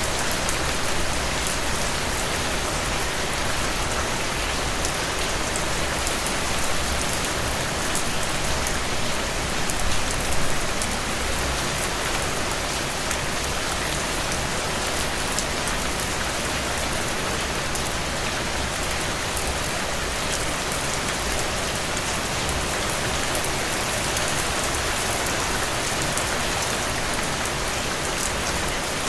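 Steady rain falling and pattering on a surface, with dense fine drop ticks and a slightly louder swell about ten seconds in.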